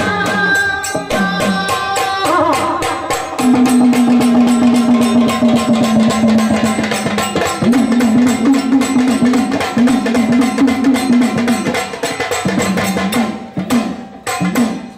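Devotional folk music: fast, steady hand-drum strokes under a long held melodic line that shifts pitch in steps, with the drumming thinning out near the end.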